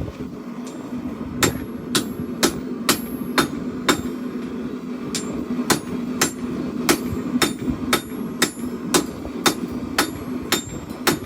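Hand hammer striking hot steel on an anvil while forging an axe head, about two blows a second with a short pause in the middle, over a steady low hum.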